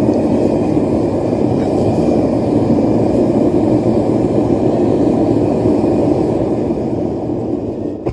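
Propane forge burner running loudly, a steady rushing noise that cuts off suddenly near the end.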